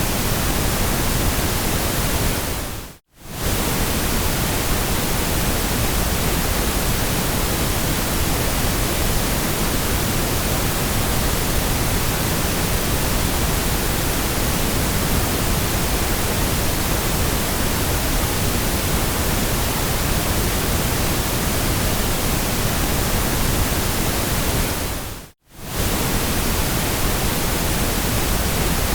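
Steady synthetic white noise, an even hiss across the whole range. It fades briefly to silence and back twice, about three seconds in and again near the end, at the seams of the loop.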